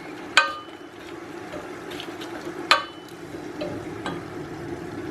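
A spoon stirring brown sugar into apricots simmering in reduced orange juice in a small pot, over a steady sizzle. The spoon clinks sharply against the pot twice, once near the start and once about halfway through, with a brief metallic ring.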